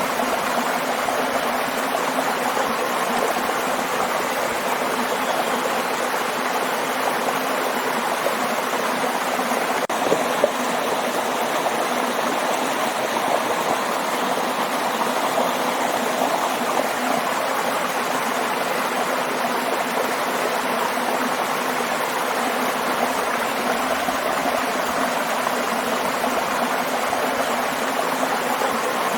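Waterfall: a steady, unbroken rush of falling and running water, with a brief click about ten seconds in.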